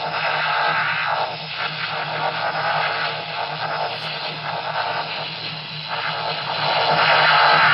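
Proton pack firing sound effect played back from the pack's electronics: a steady hissing, noisy blast over a low hum, growing louder near the end.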